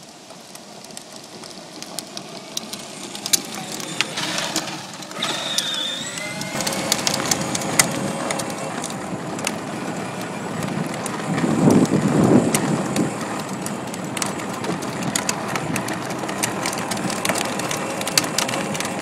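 12-volt John Deere Gator ride-on toy driving over rough ground, its plastic wheels crunching and rattling with many small clicks. It grows louder over the first several seconds as it approaches.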